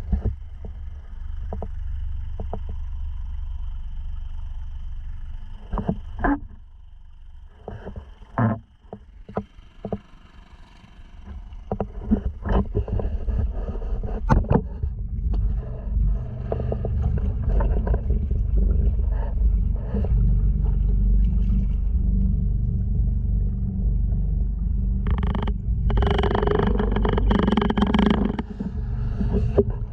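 Honda 2.3 hp single-cylinder four-stroke outboard running steadily, pushing a sea kayak, with water slapping and splashing against the hull. The drone thins out for a few seconds about a third of the way in, and a louder rush of water comes near the end.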